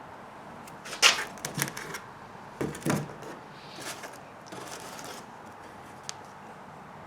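Small hardware being handled by hand, clicking, tapping and rustling. There is a sharp click about a second in, a couple of low knocks around three seconds, a rustle a little later, and one last small click near the end.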